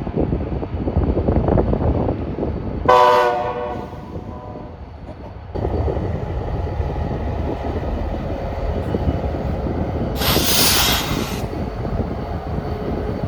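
Slow-moving BNSF local freight train passing with a steady diesel locomotive rumble. A short, loud horn blast sounds about three seconds in, and a brief burst of hiss comes about ten seconds in.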